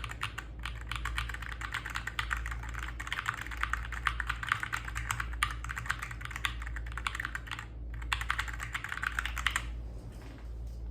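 Typing on a Madlions Mad68 Pro magnetic-switch keyboard: a fast, dense run of key clacks with a short break about eight seconds in, thinning near the end. It is picked up by a phone microphone over a steady low hum.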